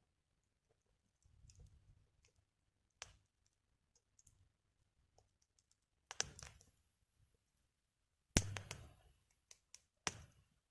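Burning firewood crackling: scattered faint ticks and a few louder snaps, about three, six, eight and ten seconds in, two of them followed by a short hiss.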